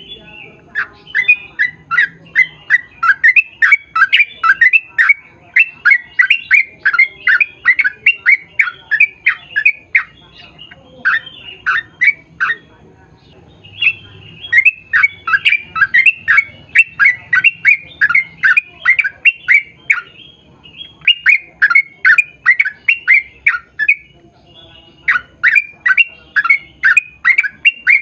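Yellow-vented bulbul (trucukan) singing long rapid runs of short downward-slurred chattering notes, about four a second, broken by a few brief pauses.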